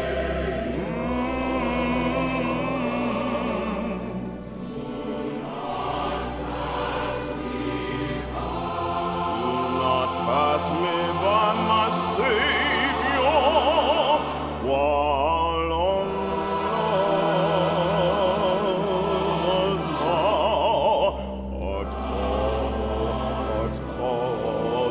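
Orchestral and choral music: sung voices with wide vibrato over a held orchestral bass, in a slow operatic style.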